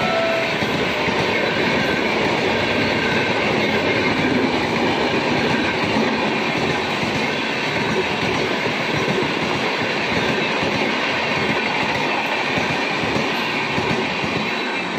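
Coaches of an Indian Railways express train rushing past close by at high speed: a steady loud rumble and hiss of wheels on rail, with clickety-clack. A train horn note carries in from before and stops about half a second in.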